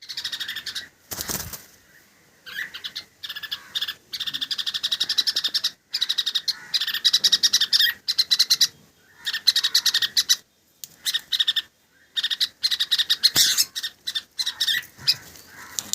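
Small birds chirping in rapid, high-pitched trains that come in repeated bursts with short pauses between. Twice, about a second in and near the end, a brief burst of noise cuts across the chirping.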